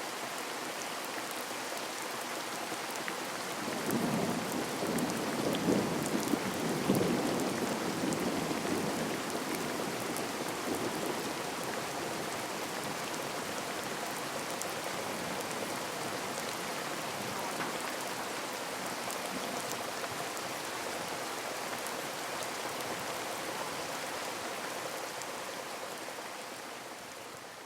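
Steady rainfall: a dense, even patter of rain on surfaces. A low rumble swells in about four seconds in, peaks a few seconds later and fades away by about eleven seconds.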